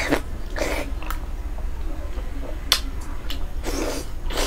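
Close-up eating sounds of a person biting into and chewing soft, fatty braised pork belly: a handful of separate wet smacks and squishes from the mouth, over a steady low hum.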